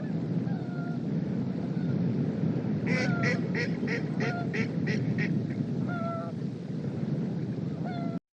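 Strong wind buffeting the microphone, with a bird calling over it: a quick series of about eight ringing notes starting about three seconds in, and single calls before and after. The sound cuts off suddenly near the end.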